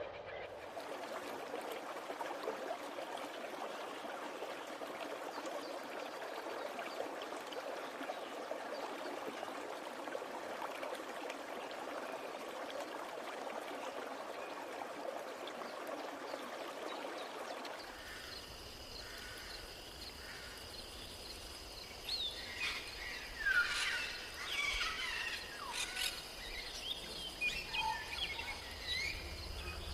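Steady rushing noise, like flowing water. About two-thirds of the way in it gives way to rainforest ambience: a steady high insect drone with birds chirping in quick rising and falling calls.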